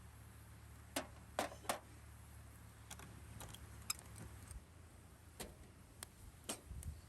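Scattered light clicks and knocks at irregular intervals, a few louder ones about a second and a half in, over a faint low hum that stops about four and a half seconds in.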